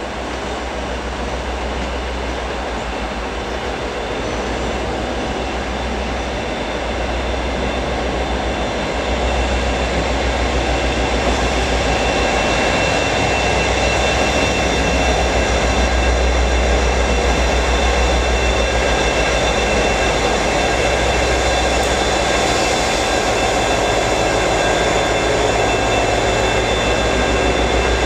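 Class 57 diesel-electric locomotive's EMD 645 twelve-cylinder engine running steadily, a deep hum with steady higher whines over it, growing gradually louder over the first ten seconds or so.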